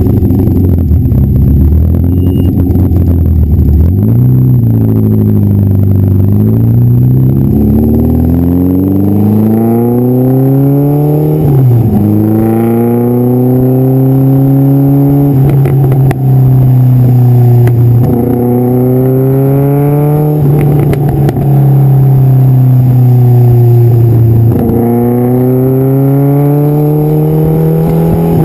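TVR sports car exhaust as the car accelerates through the gears. The engine note climbs in pitch, then drops suddenly at each upshift, four times.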